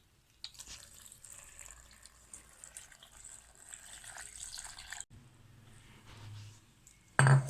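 Water being poured into a blender jar, an uneven splashing pour that cuts off sharply about five seconds in. A faint low hum follows.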